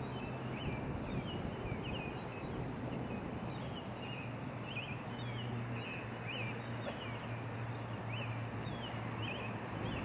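Outdoor ambience: small birds chirping in short, quick calls about twice a second over a steady hiss and a low hum.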